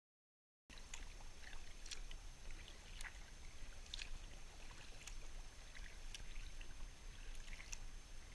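Kayak paddle strokes splashing into the water, about one a second, over a low rumble. The sound cuts in abruptly after a brief silence, less than a second in.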